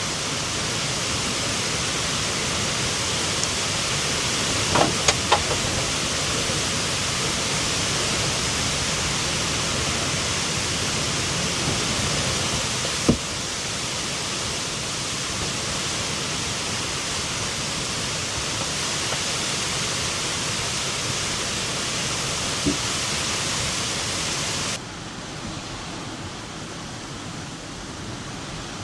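Strong wind rushing as a steady, even hiss, with a few faint knocks. It drops suddenly to a lower level about halfway through and again near the end.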